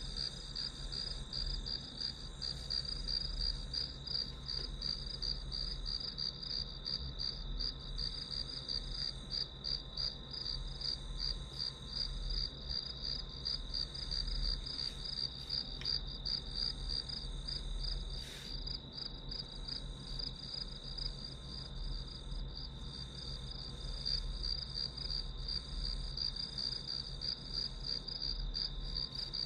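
Crickets chirping in a steady, fast-pulsing chorus, with a low steady hum beneath and a single faint click about eighteen seconds in.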